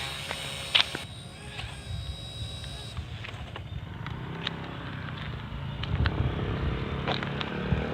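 An engine running with a steady low rumble and scattered light clicks; its higher hiss drops away about a second in and again about three seconds in.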